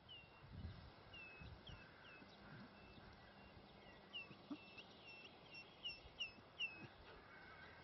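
Faint bird calls: a string of short, high, down-slurred notes, about two a second, getting louder from about halfway through. A few low thumps in the first second or two.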